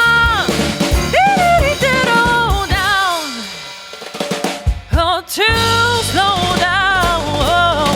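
Live band music: drum kit and electric piano under a high, sliding, wavering wordless vocal line. About three seconds in the band thins out with a falling glide, and the drums and bass come back in full about five and a half seconds in.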